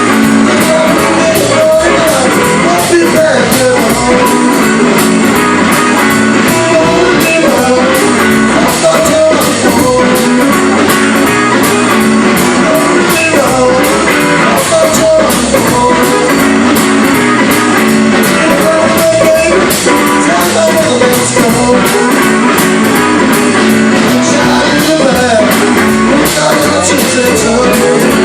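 Blues-rock band playing loudly, an electric guitar leading with notes that bend up and down.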